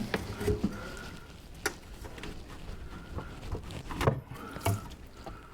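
A handful of separate short knocks and clicks, about five, scattered over a few seconds, like things being handled or set down.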